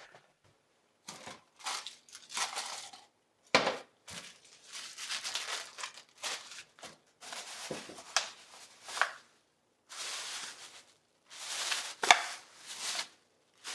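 Footsteps crunching through snow: an uneven run of short crunches, roughly one a second.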